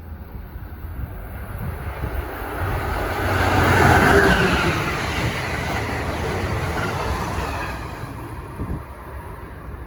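A train passing through the station: it grows to its loudest about four seconds in, holds fairly steady, then fades near the end.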